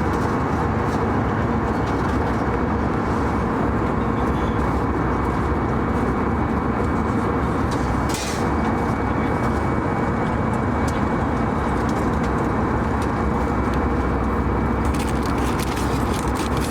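Steady drone inside an Airbus A319 passenger cabin: jet engine and airflow noise with faint steady hums, broken by a brief hiss about eight seconds in.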